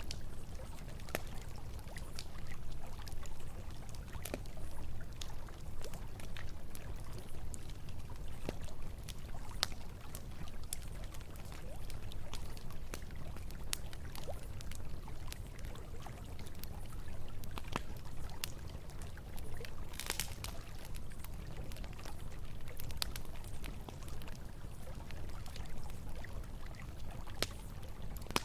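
Campfire crackling with scattered sharp pops, and a short flurry of pops about twenty seconds in, over the steady rush of running river water.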